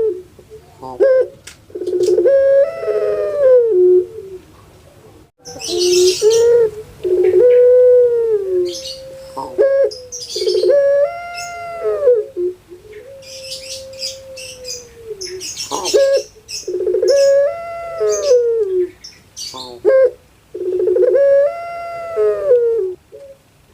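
Puter pelung dove (Streptopelia risoria) cooing again and again: drawn-out calls that rise and fall, some held as one long steady note. Higher chirping comes in now and then.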